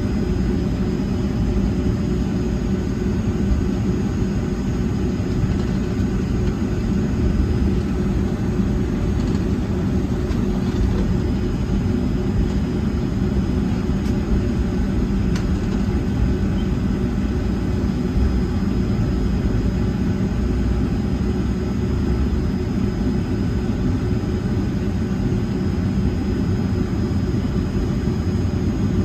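Cabin noise of a Boeing 757-200 with its Pratt & Whitney engines running steadily: a constant low rumble with a faint high whine and a few fixed tones, not changing in pitch or level.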